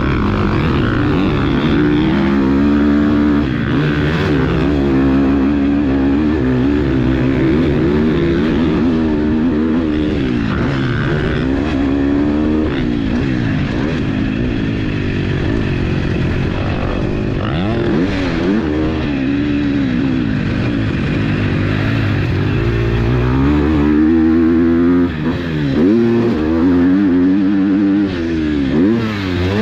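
2021 KTM 250 SX-F single-cylinder four-stroke motocross engine being ridden hard, revving up and dropping back over and over as the rider accelerates, shifts and rolls off the throttle.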